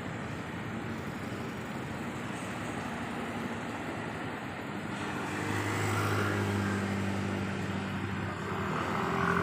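Road traffic noise, with a vehicle's engine hum coming up and growing louder about halfway through as it draws near.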